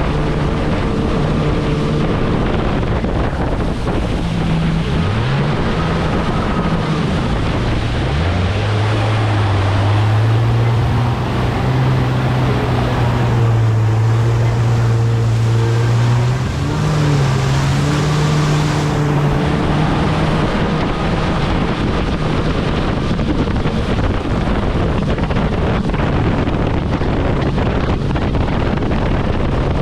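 Kawasaki jet ski engine running under way, with wind buffeting the microphone and water rushing past. The engine note drops lower about eight seconds in and climbs back up a little past halfway.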